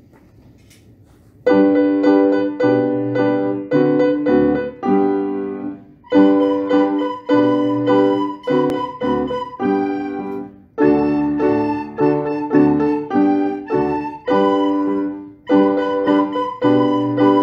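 Piano playing a tune of short, separate notes in a steady rhythm, starting about a second and a half in.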